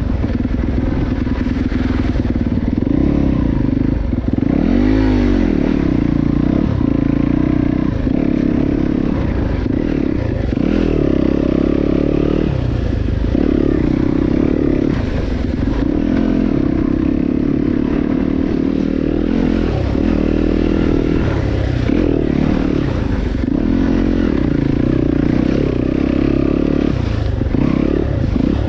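Dirt bike being ridden over rough, muddy trail, its motor revving up and down repeatedly as the rider works the throttle, with steady rattling and clatter from the bike.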